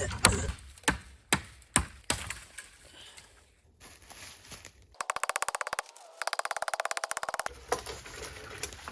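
Dry wood cracking as a tree is broken up for wood: about five sharp cracks in the first two seconds. From about five seconds in, a rapid, even rattle of clicks lasts about two and a half seconds, with a short break in the middle.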